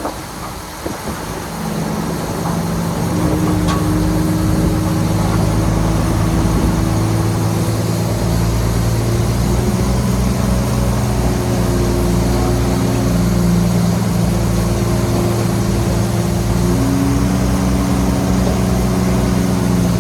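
Heavy diesel engine of earthmoving machinery running steadily. It is quieter at first, grows louder about two seconds in, and then holds an even note.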